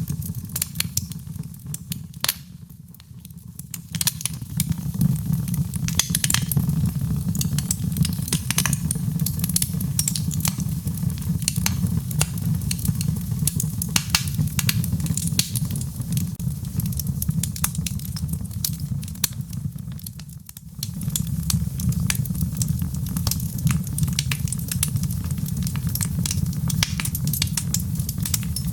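Wood fire in a fireplace crackling, with frequent sharp irregular pops over a steady low rumble. The rumble briefly fades about twenty seconds in, then returns.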